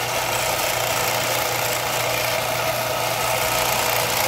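Belt grinder running steadily with the hiss of the abrasive belt: an even, unchanging machine drone with a low hum underneath.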